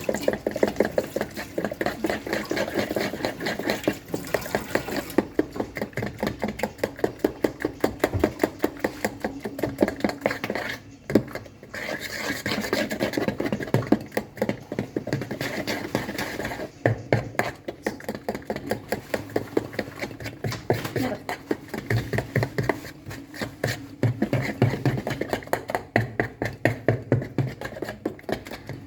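Cake batter being beaten by hand in a bowl: rapid, rhythmic strokes of a utensil against the bowl, pausing briefly twice.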